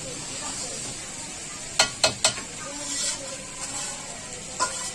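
Chicken curry bhuna sizzling as it fries in the pan, a steady hiss, with three sharp clacks of a spoon against the pan about two seconds in and one more near the end.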